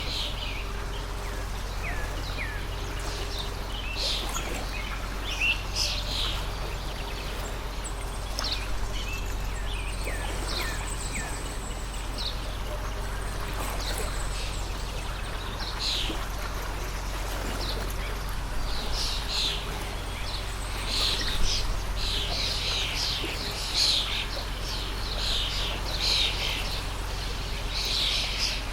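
A stream of running water with small birds chirping over it; the chirps come thicker in the last third.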